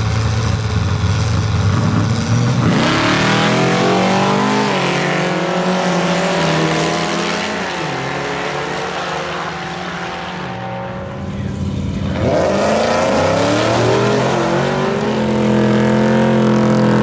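Drag racing cars launching down the strip: engine pitch climbs steeply, drops at a gear shift, and climbs again, once about 3 seconds in and again about 12 seconds in.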